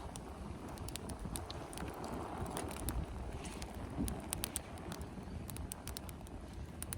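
Wood fire crackling, with many sharp irregular pops and a soft rush in the middle, over wind rumbling on the microphone.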